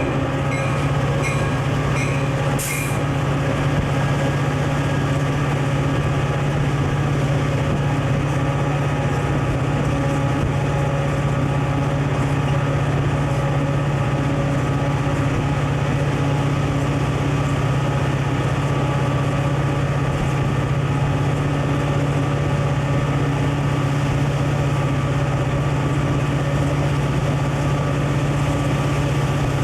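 Diesel locomotive of a Conrail freight train running under a steady drone, with a few light regular clicks in the first couple of seconds.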